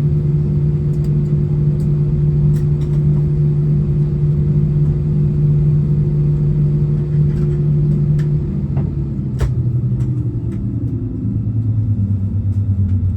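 Low steady drone inside an Airbus A320 cabin after landing. About two-thirds of the way in the hum drops lower and starts to pulse. Scattered light clicks sound over it.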